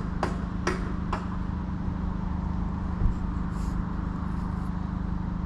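Hammer blows on metal, three sharp strikes about half a second apart, then stopping, with another single knock about three seconds in, over a steady low engine hum. The hammering is workmen trying to fix a broken-down JCB digger.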